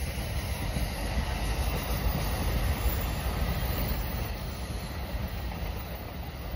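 NJ Transit double-deck commuter train passing, a steady rumble of wheels on rail that builds to its loudest about two to three seconds in and then eases slightly.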